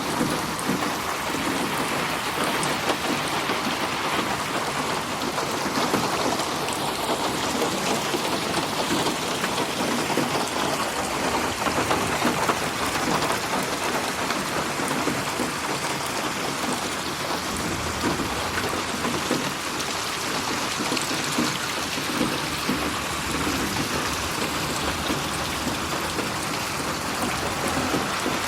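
Steady, dense rain falling, mixed as 8D audio so that it pans around the listener.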